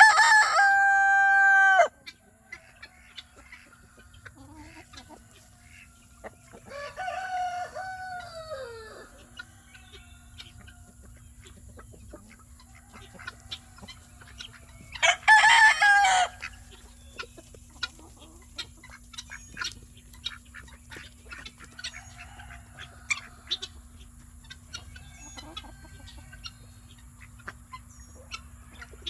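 Roosters crowing three times: a loud, long, steady crow at the start, a quieter crow about seven seconds in that drops in pitch at its end, and another loud crow about fifteen seconds in.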